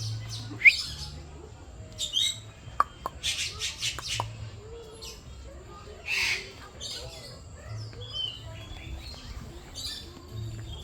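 Several aviary birds chirping and calling in short, scattered calls, the loudest a sharp chirp just under a second in, with a quick run of calls around three to four seconds in.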